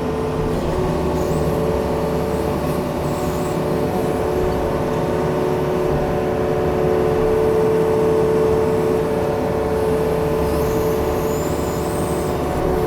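Diesel engine of a Yanmar machine running steadily at working revs, rising slightly in the middle.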